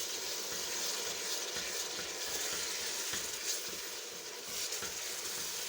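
Grated tomato, onions and spices frying in hot ghee in a pot: a steady sizzling hiss, with a few faint clicks of a spoon.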